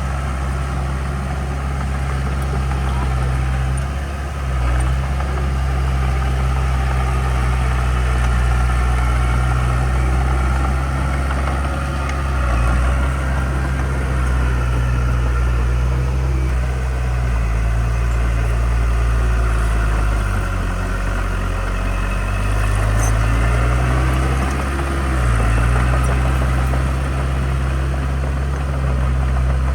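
Heavy diesel engine of earthmoving equipment running with a deep, steady drone. Its speed drops and recovers a few times, with a longer sag past the middle that comes back up near the end.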